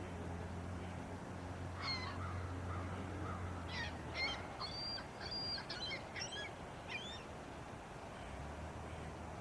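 A bird calling in short, repeated calls, once about two seconds in and then in a run from about four to seven seconds in, over a low steady hum that drops out partway through.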